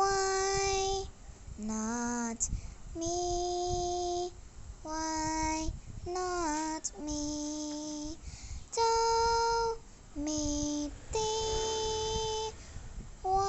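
A single high voice singing a cappella without words: a run of held notes with short breaks between them, one of them bending down in pitch about six seconds in. The voice stands in for the song's instrumental part.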